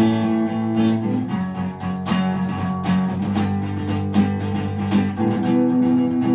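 Acoustic guitar strumming chords, an instrumental passage between sung lines of the song.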